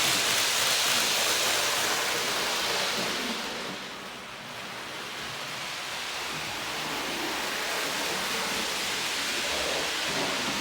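Athearn HO scale Hustler switcher locomotive running under its rubber-band drive, a steady hissing whir from the motor and wheels on the track that dips about four seconds in and then builds again.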